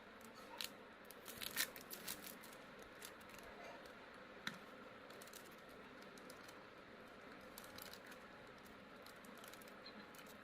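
Crunchy material cracking and crumbling as it is crushed under a stone: a quick run of crisp crackles and snaps in the first couple of seconds, a single sharp snap about four and a half seconds in, then faint scattered crackles.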